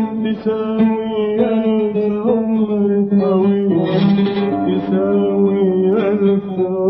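Arabic song: a male voice holding long notes over a plucked oud, whose strokes repeat under the sustained tones. The pitch bends briefly about four seconds in.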